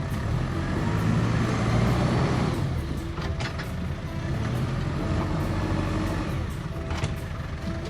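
New Holland T5060 tractor's diesel engine working under load, swelling louder for a couple of seconds about a second in, with a few short sharp cracks in the middle and near the end.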